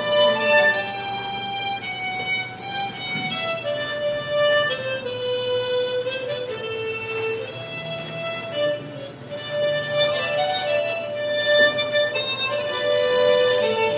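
Harmonica duet playing a slow melody: soprano and alto harmonicas holding sustained notes, with a brief dip in level about two thirds of the way through.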